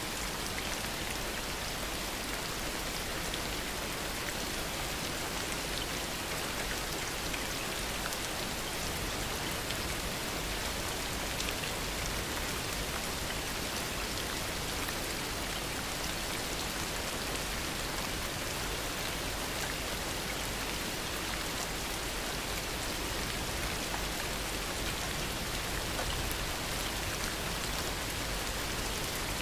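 Heavy rain falling steadily, with many single drops ticking sharply against surfaces close by. No thunder.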